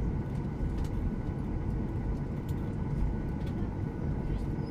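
Cabin noise of a Boeing 737-800 with its CFM56-7B jet engines running: a steady low rumble with faint steady whine tones above it and a few light clicks.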